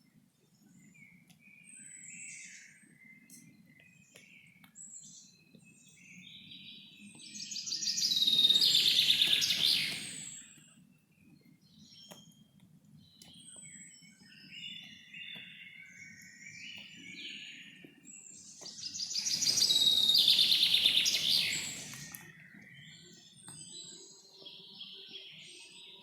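Wild birds chirping and singing in a forest, with scattered faint calls throughout and two louder stretches of dense song that swell up and fade away, about 8 and 20 seconds in. A faint low background noise runs underneath.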